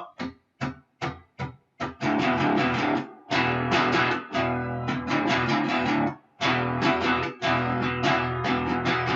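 Guitar in drop D tuning playing a power-chord riff that alternates open strings with the second fret. It opens with a few short, clipped strokes; about two seconds in, sustained strummed chords take over, broken by brief gaps.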